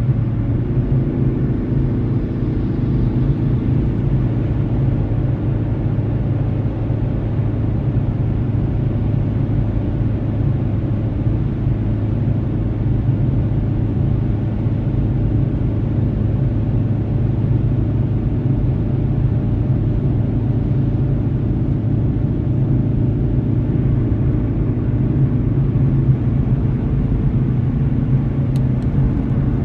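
Car driving at steady speed, heard from inside the cabin by a dashcam: a steady low rumble of engine and road noise.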